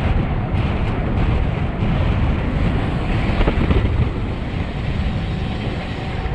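Wind rushing over the camera microphone on a fast road-bike descent, a steady heavy roar. Faint steady tones join in about five seconds in.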